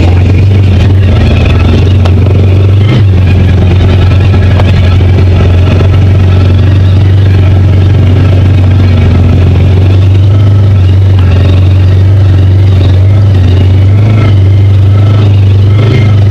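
Side-by-side UTV engine running steadily as the machine drives along a trail, heard from on board as a loud, even low drone. A brief knock comes about three seconds in.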